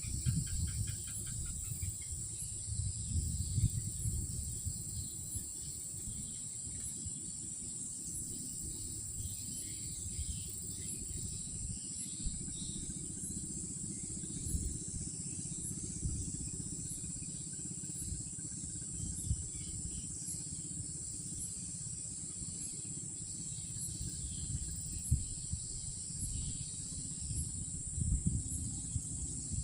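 Night insect chorus of crickets or similar insects: a steady, unbroken high-pitched trill. Under it a low rumbling noise rises and falls, with a brief pulsing chirp in the first second or two.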